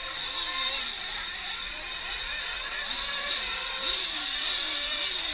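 Several 1/8-scale nitro RC truck engines revving up and down in turn, pitches rising and falling and overlapping, over a steady high-pitched whine.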